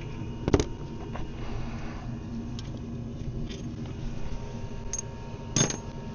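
Two sharp metallic clinks of hand tools on the van's gearbox and engine bay as the bell housing bolts are worked on, one about half a second in and one near the end, with a few fainter ticks between, over a steady low background hum.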